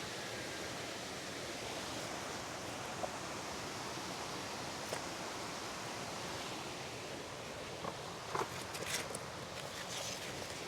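Steady rushing of river water, with a few faint, scattered knocks in the second half.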